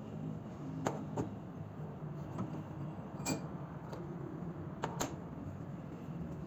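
Small rusty steel hand-drill parts clicking and clinking against each other and the vise as the drill is taken apart: a handful of sharp metallic clicks over a low steady background noise.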